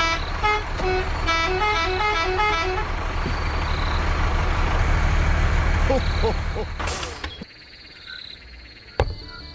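A horn tooting a quick tune of short notes over a steady low mechanical rumble. The rumble stops suddenly about seven seconds in, and a single thump follows near the end.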